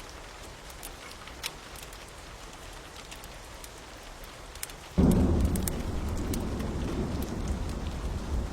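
Steady rain with scattered crackling pops from a fire. About five seconds in, a loud, low rumble of thunder starts suddenly and keeps rolling.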